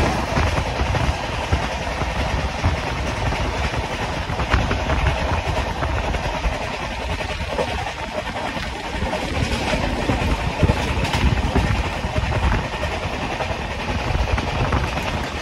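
Trains running at full speed on parallel tracks, heard from aboard the overtaking train: a steady rumble of steel wheels on rail with a few sharp clicks from rail joints.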